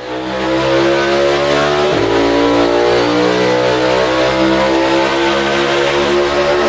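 NASCAR Cup stock car V8 engine running at steady high revs, with a brief shift in pitch about two seconds in.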